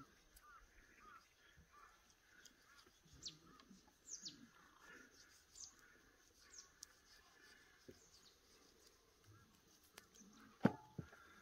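Faint, sparse bird chirps, short falling high notes, over a very quiet background, with one sharp knock near the end.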